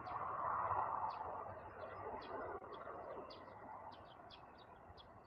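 Small birds chirping over and over in short, quick calls, about three or four a second, over a rushing noise that is loudest at the start and fades away over a few seconds.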